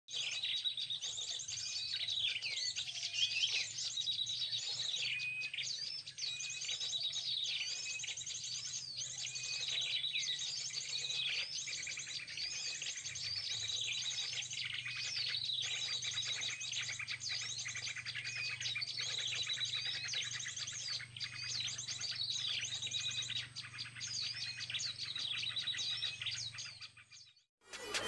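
Small birds calling: a busy, continuous run of high, repeated chirps, many of them falling notes. The calls cut off suddenly near the end.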